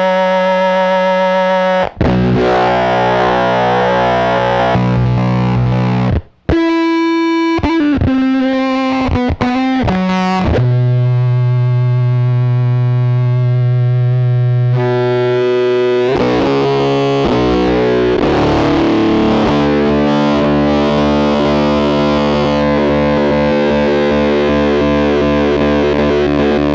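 Electric guitar played through the AC Noises URLA's square-wave CMOS fuzz and MS-20-style resonant filter, its high-pass filter swept by an expression pedal: heavily distorted sustained notes whose resonant peak glides up and down in several sweeps. The playing cuts off briefly twice, about two and six seconds in.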